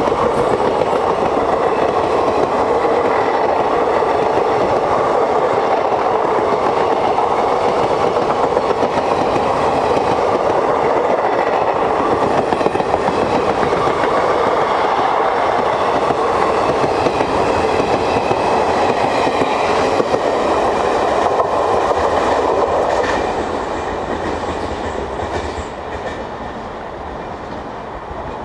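Express passenger train passing at speed: a steady, loud rumble of coach wheels on the rails with clickety-clack over the joints. It fades as the last coaches go by near the end.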